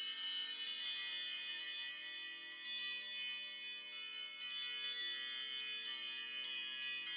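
A phone ringtone playing: a melody of bright chiming notes struck in quick succession, each ringing on, with a short lull about two seconds in.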